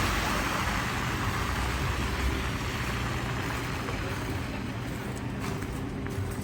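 Street traffic noise: a vehicle's broad hiss fading away over a low steady hum.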